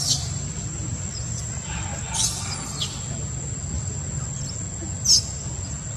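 Four brief high-pitched squeaking chirps from an animal, the loudest about five seconds in, over a steady low hum and a thin high whine.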